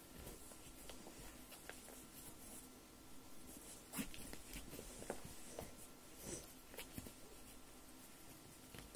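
Faint rustling and a few soft knocks and clicks, most of them in the middle of the stretch, as football boots are handled and pulled on.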